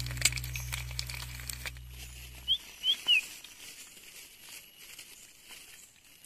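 Crackling and clicking over a low steady hum that cuts off about two and a half seconds in. Then a bird gives three short high chirps in quick succession, over quiet forest ambience with faint ticks.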